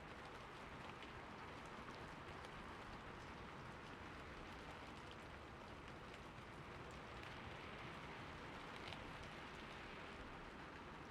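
Soft, steady rain falling, with scattered faint individual drop ticks.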